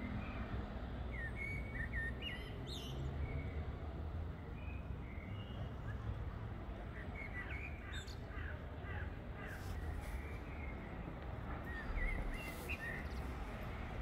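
Birds chirping and calling: short notes scattered throughout, with a quick run of about six notes around the middle, over a steady low rumble.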